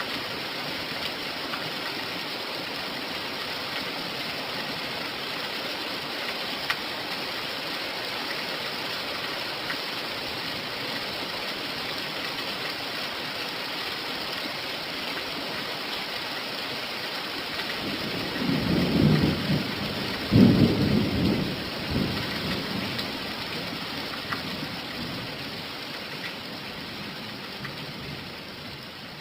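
Steady heavy rain falling, with thunder rumbling twice in quick succession about two-thirds of the way through.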